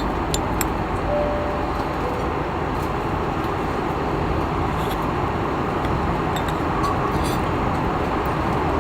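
Steady roar of a jet airliner's cabin in cruise flight, with a few faint clicks.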